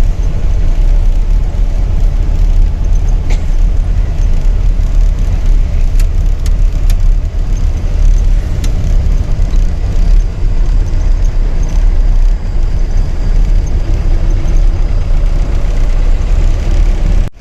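Safari jeep on the move: a steady, heavy low rumble of engine and road, with a few short sharp rattles about 3, 6 to 7 and 9 seconds in.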